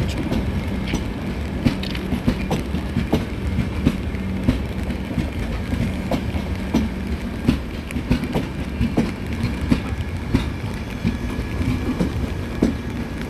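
Express passenger train's coaches rolling past, a steady low rumble with repeated sharp clacks of the wheels over the rail joints.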